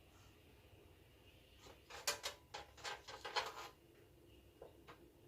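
Handling noise: a quick run of light clicks and knocks, starting about two seconds in and lasting under two seconds.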